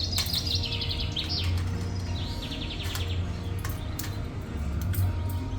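A small bird singing a rapid trill of repeated high notes, heard twice, over soft background music, with a few light clicks.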